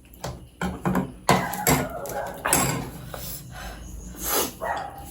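A dog barking, several barks spread about a second apart.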